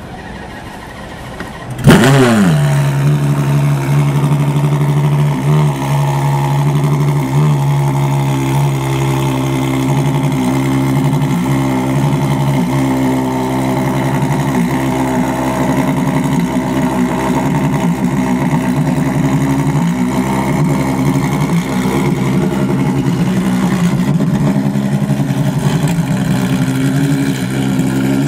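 Ferrari FXX's 6.3-litre V12 cranking and catching about two seconds in, flaring up in revs and falling back, then settling into a steady, loud idle with a few light throttle blips.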